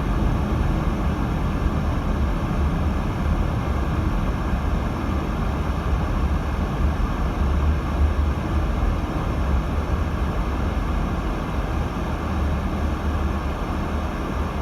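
Steady in-cabin road noise of a 2018 Subaru Crosstrek driving on a snowy road: a continuous low rumble from tyres and engine.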